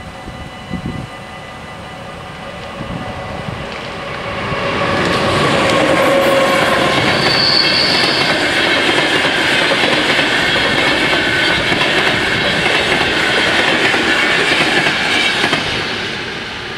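Amsterdam–Berlin Intercity train passing over a level crossing: the rolling noise of its wheels swells about four seconds in, stays loud with a brief high squeal about halfway, and eases off near the end. The crossing's electronic bells ring steadily in the first seconds, under the approaching train.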